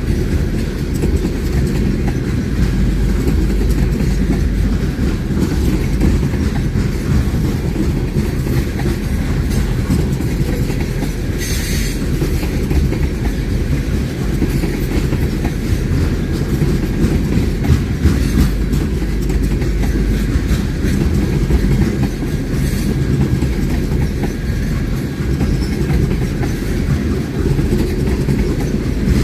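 A train's cars rolling past on the rails, a steady loud rumble with wheel clatter over the track joints. About twelve seconds in there is a brief sharper hiss.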